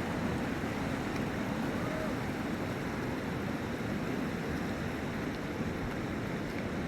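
Steady rushing roar of a flooded river's fast-flowing water, unbroken throughout.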